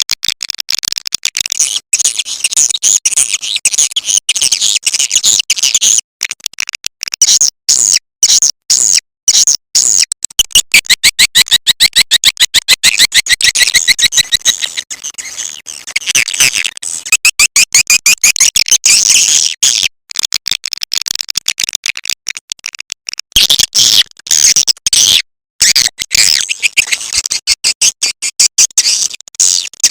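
Recorded swiftlet call: dense, high-pitched chattering chirps of edible-nest swiftlets, broken by brief silent gaps, with a stretch of fast, even trilling about ten seconds in. This is the lure call played through tweeters to draw swiftlets into a nesting house.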